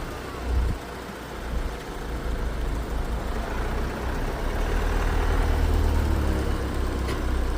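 2015 Ford Focus engine running with a low rumble during a transmission relearn. It grows louder from about halfway through and eases off at the very end.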